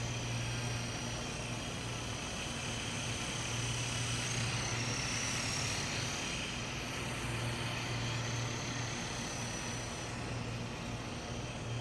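Small electric RC toy helicopter in flight: a steady rotor hum under a thin, high electric-motor whine that wavers in pitch about halfway through as the throttle is adjusted.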